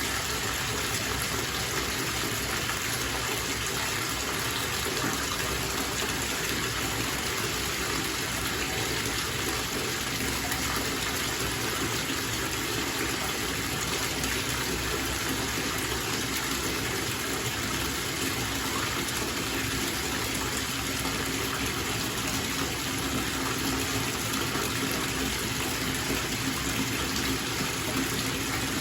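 Bathtub tap running steadily, water gushing into the filling tub.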